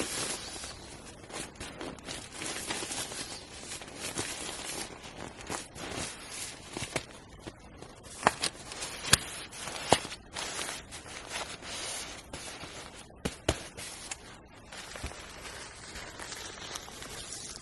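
Continuous rustling and crinkling from things being handled or moved, with a few sharp clicks or snaps: three close together around the middle and another one a few seconds later.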